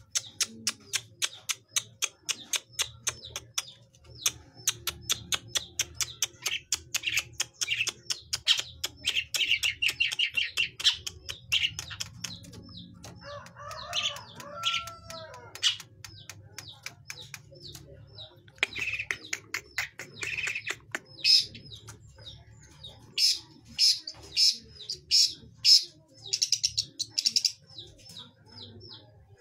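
Young long-tailed shrike practising its song: a long run of rapid, sharp ticking chatter, then louder, spaced calls in the second half.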